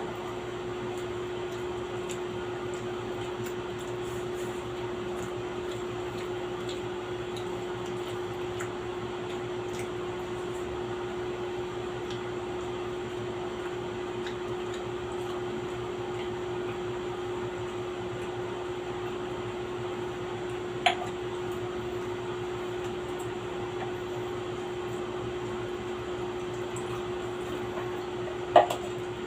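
Steady hum of a small motor, such as an electric fan, holding one constant tone. Two sharp clinks of utensils on dishes are heard, one about two-thirds of the way in and one near the end.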